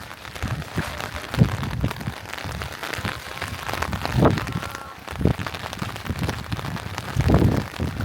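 Rain pattering steadily on surfaces as a dense spatter of drops, with a few louder low thumps, about four across the stretch.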